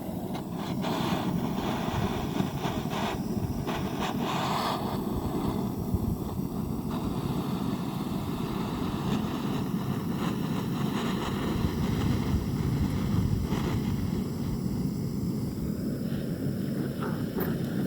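Portable gas torch burning with a steady hiss, lit just as the sound begins.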